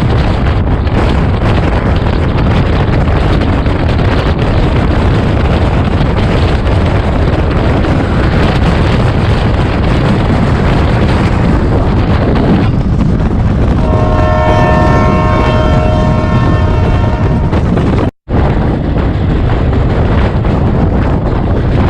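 Express train running at speed, with heavy rushing wind and track noise. A train horn sounds one long steady multi-tone blast for about four seconds past the middle. Near the end the sound cuts out for a split second.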